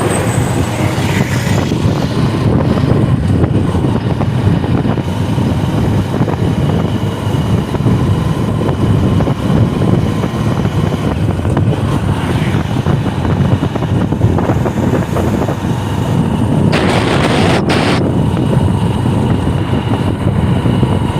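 Motorcycle running at road speed with wind rushing over the microphone, a steady low rumble throughout. About three-quarters of the way through, a louder hiss lasts for about a second.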